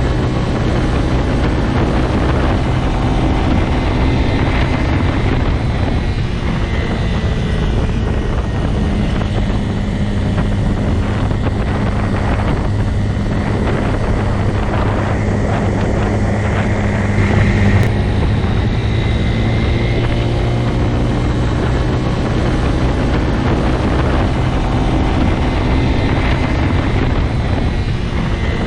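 Motorcycle engine running steadily with a low drone, its pitch wavering only slightly, briefly louder about seventeen seconds in.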